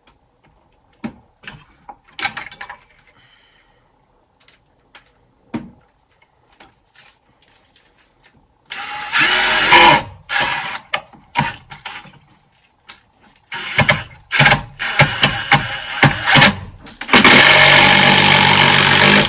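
Cordless power driver running screws into a wood block in the wall framing. A few light clicks and taps come first, then a burst of driving about nine seconds in, several short bursts a few seconds later, and one long steady run near the end.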